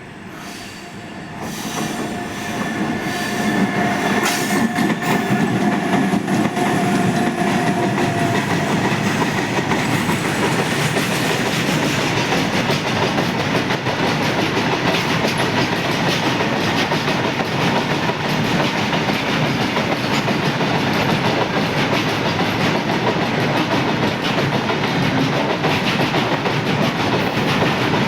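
Freight train hauled by two WAG-12B electric locomotives, growing louder over the first few seconds as it approaches, with a steady whine between about two and eight seconds in. Then a long line of goods wagons rolls past with a steady rumble and wheel clatter.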